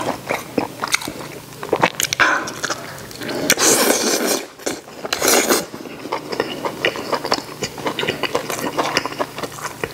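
Close-miked eating: meat of a braised beef rib being bitten off the bone and chewed, with many small wet mouth clicks and smacks. There are a few louder breathy sounds about two, four and five seconds in.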